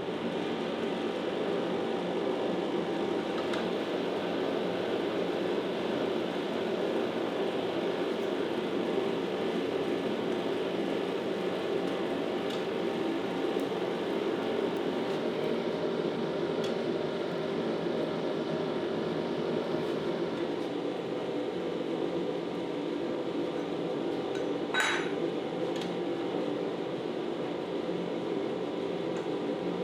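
A workshop machine running with a steady hum, with a few light metallic clicks and one brighter ringing clink near the end.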